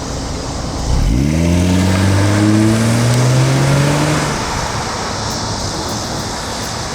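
A 1996 Jaguar XJ's inline-six engine accelerating: its note jumps up about a second in, climbs steadily for about three seconds, then fades away, over a constant rush of wind and road noise.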